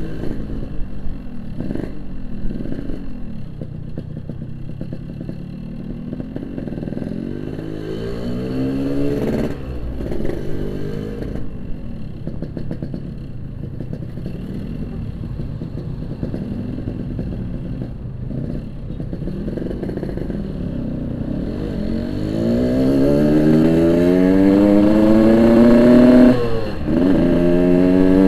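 Yamaha RX-King two-stroke single-cylinder motorcycle engine under way, its pitch rising and falling with the throttle. There is a short climb in revs about nine seconds in, then a long climb over the last six seconds that drops sharply for a gear change and climbs again, louder.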